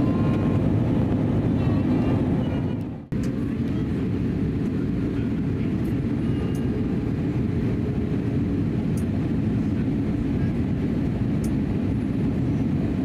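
Steady cabin noise inside an Airbus A320neo in flight: a low rumble from its CFM LEAP-1A engines and the airflow. The sound fades away about three seconds in and cuts straight back in.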